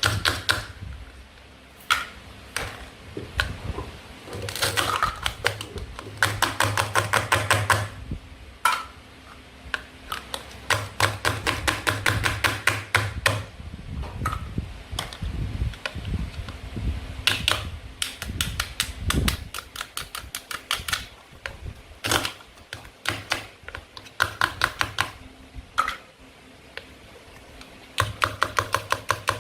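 Toy food being handled and cut: several runs of fast, even clicking, each lasting a second or more, with single sharp taps and knocks between them.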